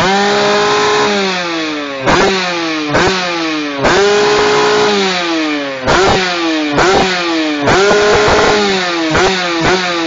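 Kawasaki Ninja R two-stroke single-cylinder engine through an RMG Racing aftermarket exhaust being revved in neutral: the throttle is blipped about nine times, revs jumping up sharply, held high for about a second three times, then falling back in long downward glides.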